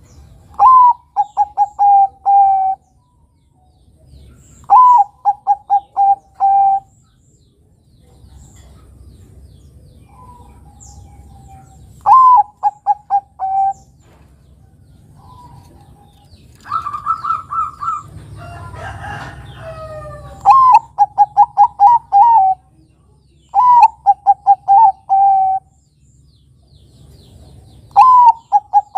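Bangkok-type zebra dove (perkutut) singing its cooing song. It repeats a phrase about six times, every few seconds: an upward opening note, then a quick string of five or six short, clipped coos.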